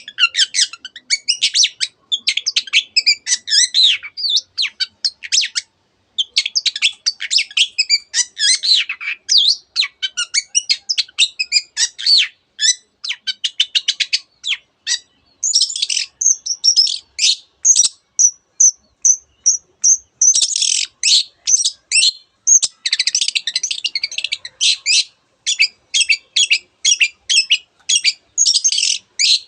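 Long-tailed shrike (cendet) singing a loud, fast, varied song full of mimicked phrases of canary and other birds. Midway it gives a string of clear, high, evenly repeated notes, and near the end bursts of rapid sharp repeated notes, about three a second.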